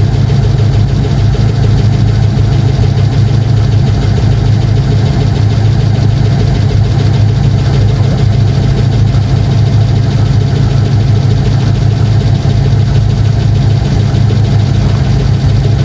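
2005 Chevrolet Tahoe's V8 engine idling steadily after a cold start.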